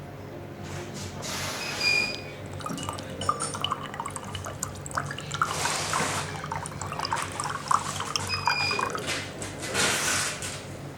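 Water poured into and out of a small Jianshui ceramic teapot, in several short runs with dripping and light clinks of ceramic between them.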